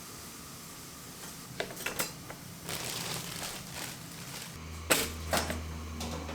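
Kitchen handling sounds: a few sharp clicks and knocks and a brief rustle, then a low steady hum from an appliance starts about four and a half seconds in, with two louder knocks over it.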